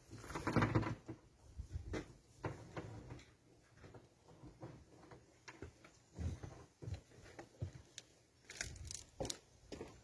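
Irregular light knocks and clicks of objects being handled, with a short scraping rustle about half a second in.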